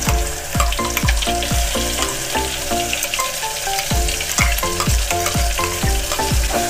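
Ground green chilli paste sizzling in hot oil in an aluminium pot, with a spoon scraping it out of a steel mixer jar. Under it runs background music with a steady drum beat that drops out for about two seconds midway.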